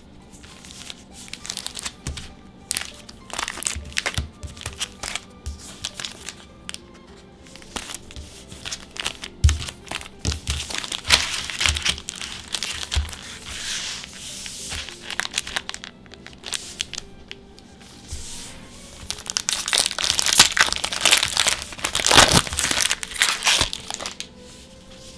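Foil booster pack wrappers crinkling and being torn open, in many short crackles and two longer loud stretches, the second near the end. Soft background music plays underneath.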